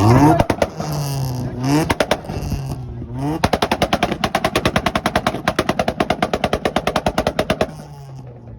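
Car engine revved hard several times, then held at high revs for about four seconds with a rapid, even string of exhaust pops like machine-gun fire, before dropping back to idle near the end.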